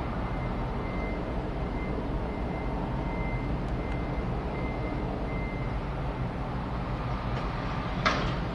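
Aircraft flying overhead: a steady low rumble. A faint high tone comes and goes through the first part, and a single sharp click sounds near the end.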